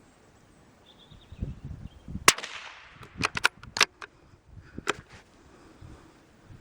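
.22 LR rifle shot from a Brno/CZ bolt-action rifle firing a CCI Stinger round: a single sharp crack with a short ringing tail. It is followed by a quick series of sharp metallic clicks as the bolt is worked, and one more click a second later.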